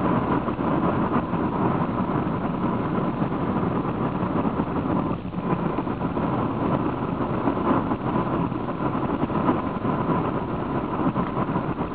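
Road and engine noise inside a Honda car cruising along a highway: a steady rumble with a faint steady whine running through it, easing briefly about five seconds in.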